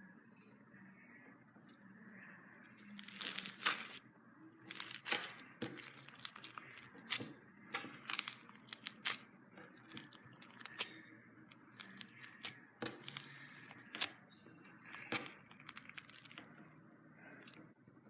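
Floam slime, slime packed with small foam beads, being squeezed and worked by hand, giving bursts of crackling and crunching. The bursts come irregularly, about once a second, from about three seconds in.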